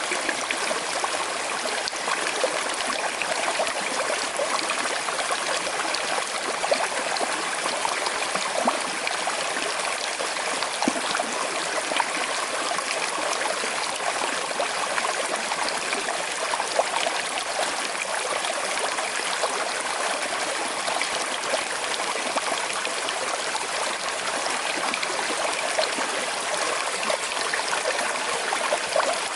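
Small river flowing gently over stones: a steady rush of water with light trickling and splashing.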